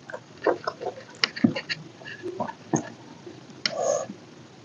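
Close-up eating sounds: irregular chewing and lip-smacking with small sharp clicks, and one longer, noisier mouth sound near the end.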